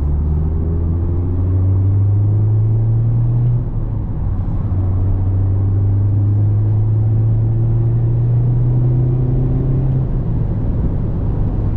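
Mazda Miata's four-cylinder engine pulling under acceleration, its note rising. There is a short break about four seconds in as it shifts up, then it climbs again until another upshift near the end, after which it settles into a steadier hum.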